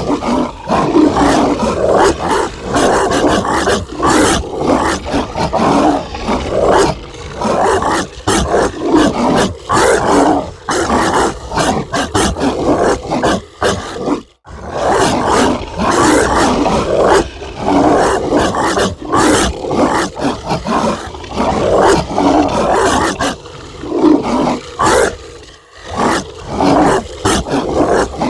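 Zombie dog sound effect: a dog barking aggressively, call after call almost without pause, with a short break about halfway through.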